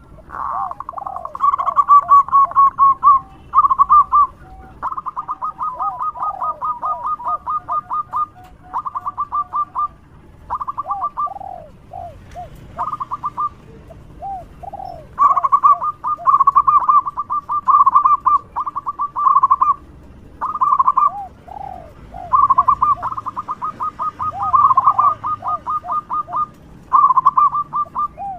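Zebra dove (perkutut) singing loud, repeated phrases of quick staccato cooing notes, each phrase a second or two long with short pauses between.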